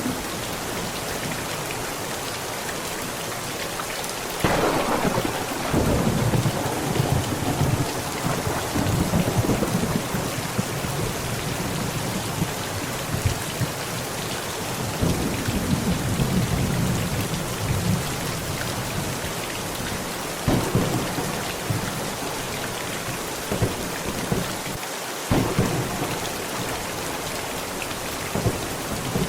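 Heavy rain falling steadily on a tent during a thunderstorm. A sudden thunderclap about four seconds in rolls into a long rumble, another rumble comes about halfway through, and two shorter cracks follow near the end.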